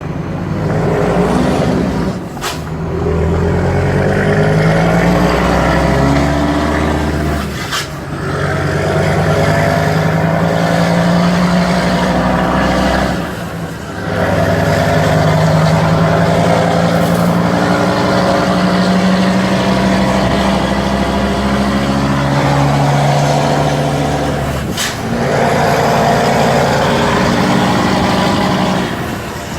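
Scania P250 truck's diesel engine, fitted with a straight-through exhaust pipe, pulling up through the gears: the engine note climbs in pitch in each gear, then drops back at each of about four gear changes, with a brief sharp hiss or click at each shift.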